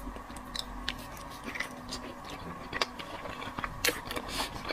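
A person chewing seafood close to the microphone: soft mouth clicks and smacks scattered through, over a faint steady hum.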